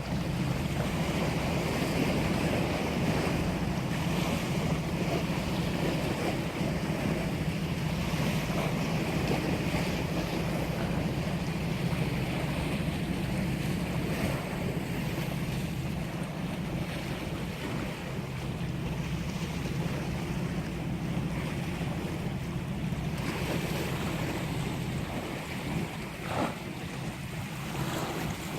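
Sea waves washing and wind buffeting the microphone, over a steady low rumble.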